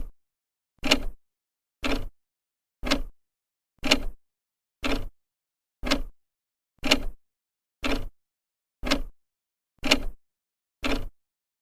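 Old clock's second hand ticking steadily, one short sharp tick every second.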